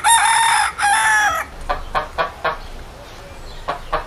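Rooster crowing once, a long loud call broken briefly near its middle, followed by a run of short clucks.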